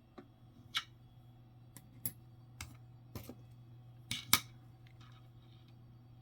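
Light clicks and taps from handling Jefferson nickels, about nine irregular ticks with a sharper double click about four seconds in.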